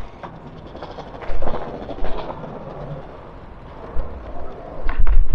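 Gusts of wind buffeting the microphone, giving loud, irregular low rumbles about a second and a half in, near four seconds and again near the end, over a steady outdoor noise.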